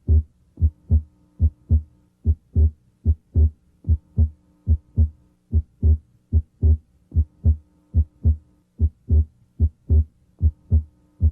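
Heart sounds heard through a stethoscope's diaphragm at the left second interspace: a steady run of lub-dub beats over a faint hum. The second heart sound is abnormally widely split, a split that comes and goes with the patient's breathing.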